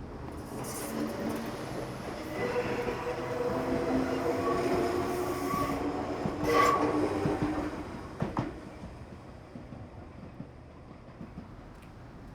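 A train passing by, its rumble growing louder and then fading away, with a whine of several steady tones and a couple of sharp clacks as it goes past.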